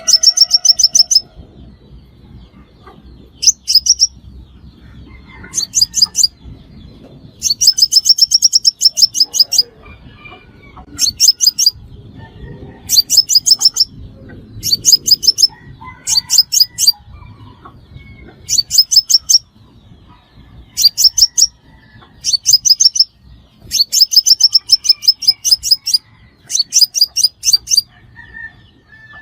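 Sunbird calling again and again: short bursts of fast, sharp, high-pitched notes, each about a second long, every second or two. This is a lure call used to draw sunbirds into traps.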